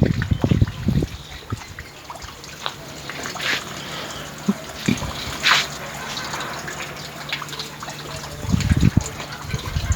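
Water trickling and dripping, with scattered small splashes and low rumbles at the start and again near the end.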